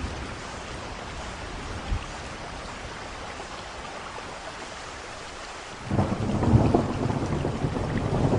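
Steady rain falling through a thunderstorm. About six seconds in, a loud low rumble of thunder breaks in suddenly and keeps rolling.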